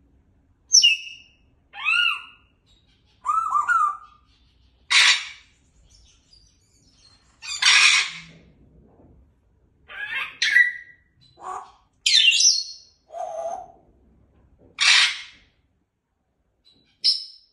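Pet parrot calling in a string of short separate calls about a second apart: pitched chirps and whistles that bend up and down, mixed with a few harsh, noisy squawks.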